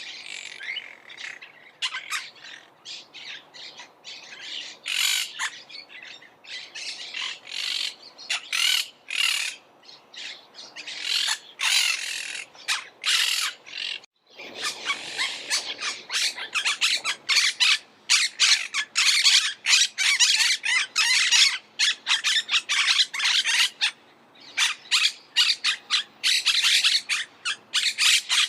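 Monk parakeets (Myiopsitta monachus) squawking: a stream of short, harsh, rapidly repeated calls. About halfway through there is a brief break, and after it the calling comes denser and louder, with several birds overlapping.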